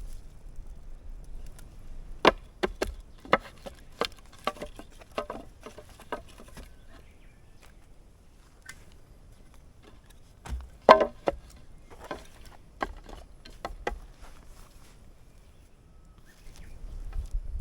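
Dry firewood being broken up: two runs of sharp wooden cracks and snaps, the first starting about two seconds in and the second, with the loudest crack, about ten seconds in.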